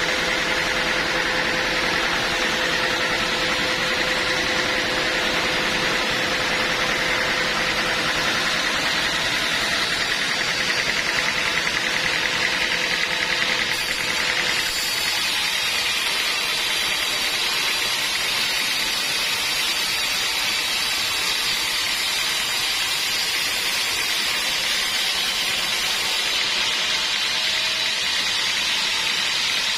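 Sawmill machinery running steadily, a loud mechanical noise with a faint whine; about halfway through the sound changes and turns higher and hissier.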